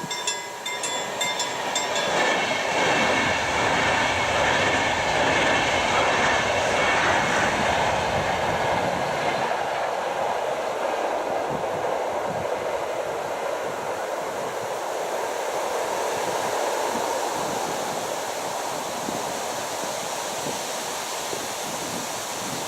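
Level crossing warning bell ringing in quick repeated strokes. About two seconds in, an InterCity passenger train hauled by an Sr2 electric locomotive passes over the crossing and drowns it out. The steady rush of wheels and carriages on the rails is loudest for several seconds, then slowly fades as the train moves away.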